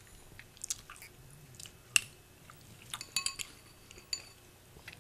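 Spoon clinking lightly against a cereal bowl several times, with a cluster of clinks about three seconds in, and quiet chewing of crunchy Peach Cheerios in between.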